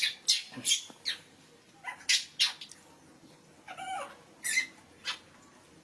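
A monkey's short, sharp high squeaks in a quick series, with one longer call falling in pitch about four seconds in.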